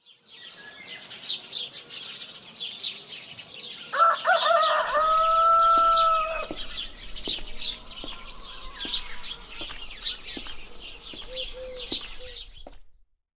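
A rooster crows once, one long call about four seconds in, over quick, steady chirping of small birds.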